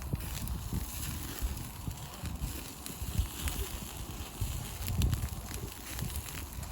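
Open wood fire crackling, with scattered sharp pops over an uneven low rumble.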